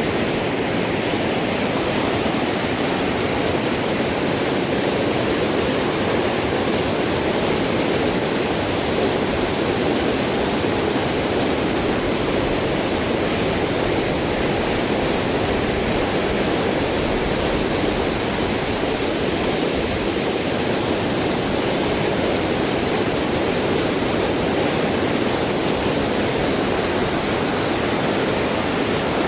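Fast-flowing river water rushing steadily, the sound of a swollen, rising river.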